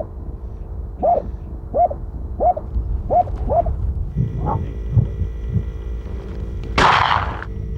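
A dog barking over and over, short yelping barks about two a second for the first few seconds. Then a single loud gunshot near the end, fired at a fox bolting from its den.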